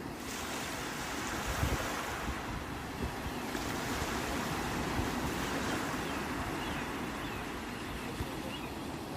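Sea waves washing in, a steady rush of surf that swells about three and a half seconds in, with wind buffeting the microphone.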